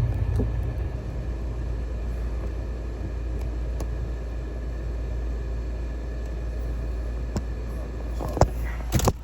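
Portable 8,000 BTU air conditioner running steadily inside a camper: a low hum from its compressor and fan, blowing cold air. A couple of short knocks near the end.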